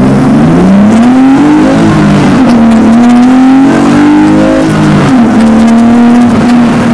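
Rally car engine revving hard under load, its pitch climbing and dropping several times, with a steady stretch near the end.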